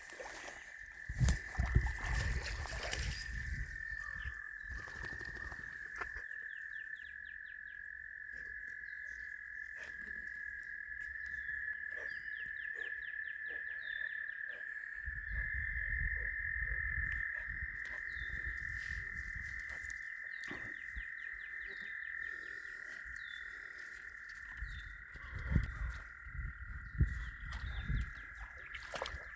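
A steady chorus of frogs calling, a continuous high trilling, with runs of quicker clicking calls above it. A few low rumbles and louder knocks come near the start, in the middle and near the end.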